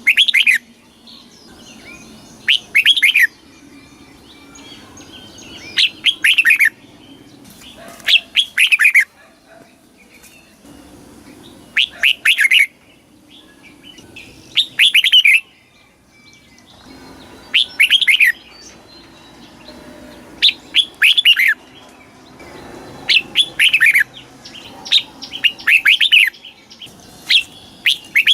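Red-whiskered bulbul singing: short, loud phrases of a few quick falling notes, repeated about every two to three seconds, some eleven times.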